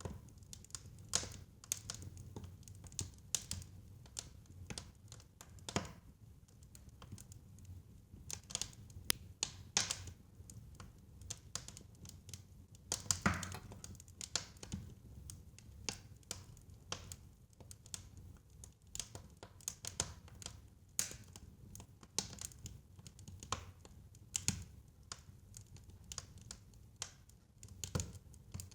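Fire crackling in a fireplace: irregular sharp snaps and pops, a few louder ones standing out, over a steady low rumble.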